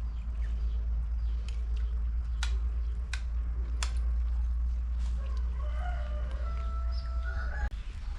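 Rooster crowing once, a long drawn-out crow in the second half, after three sharp knocks about a second apart; a steady low hum runs underneath.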